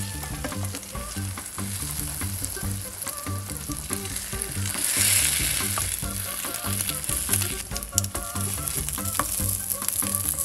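Egg-coated bread slices frying in butter in a nonstick pan, sizzling steadily, while a wooden spatula scrapes and turns them; the sizzle swells about halfway through. Soft background music plays underneath.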